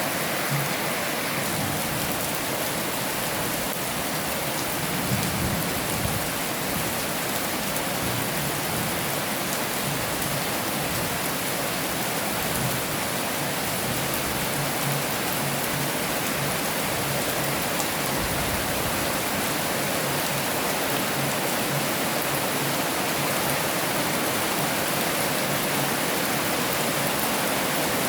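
Heavy rain falling steadily, an even hiss with no break, with a brief faint low rumble about five seconds in.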